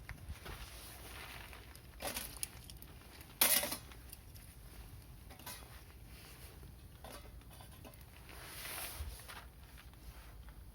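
Wood fire crackling with scattered pops and clicks, and one louder sharp crack about three and a half seconds in.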